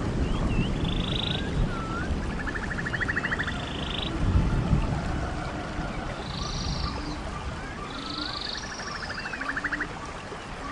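Rainforest ambience of calling frogs: buzzy pulsed trills and short chirps repeat over and over, over a low rushing noise that eases off about halfway through.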